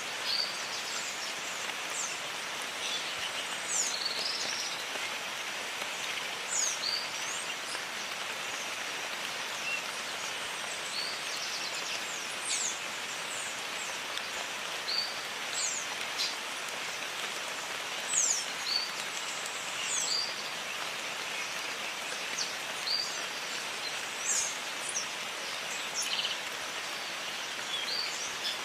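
Steady rain falling in a jungle, with birds calling throughout: short, high whistled swoops every second or two over the rain's even hiss.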